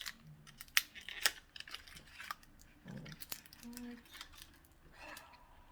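A small cardboard product box being handled and opened: scattered sharp clicks and taps, two of them louder about a second in, with light crinkling of packaging.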